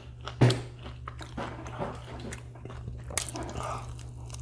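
Close-miked mouth noises of someone eating fried chicken: biting and chewing with small wet clicks. A single loud thump about half a second in, over a steady low hum.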